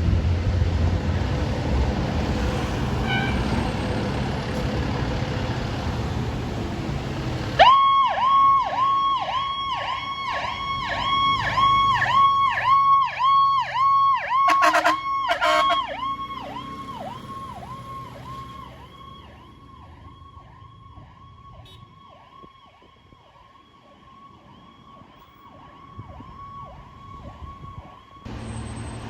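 Heavy vehicle rumble and road noise, then an emergency vehicle's electronic siren on a fast yelp, rising and falling about two and a half times a second. It grows fainter as the vehicle moves away and cuts off suddenly near the end.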